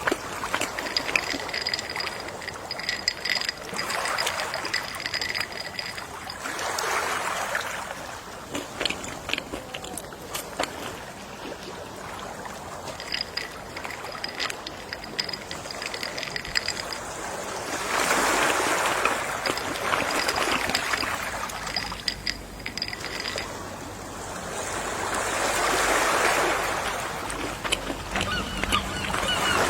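Gentle ocean waves washing onto a shore, the surf swelling and easing every several seconds.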